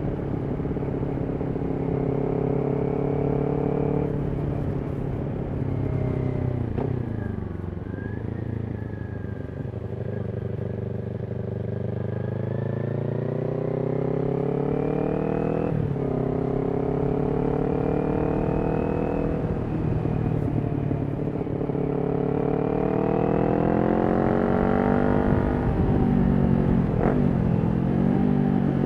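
Kawasaki Ninja 400's parallel-twin engine through a Yoshimura exhaust while riding. Engine pitch climbs in long sweeps under throttle, with sudden drops at the gear changes, and falls away twice when the throttle is rolled off.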